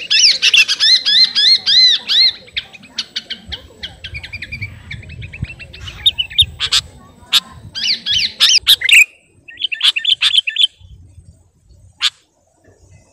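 Sooty-headed bulbul calling in full voice, as if challenging a rival: fast runs of bright, arched notes, about five a second, broken by chatter and a few sharp clicks. The bird calls in bursts and falls nearly quiet near the end.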